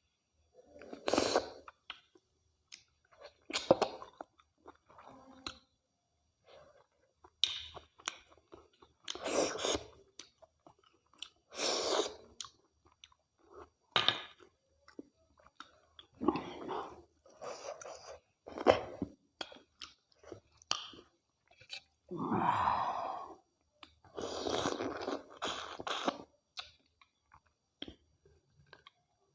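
Close-miked chewing of mutton curry and rice: irregular wet mouth sounds, one burst every second or two.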